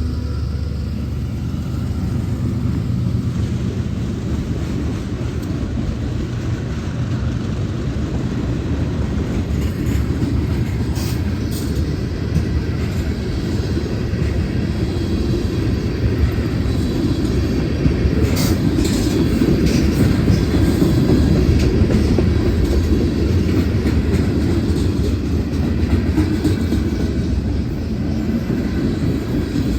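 CSX freight train rolling past slowly, a steady heavy rumble of cars and wheels on the rails with occasional sharp clicks and metallic squeaks from the wheels. It grows a little louder past the middle.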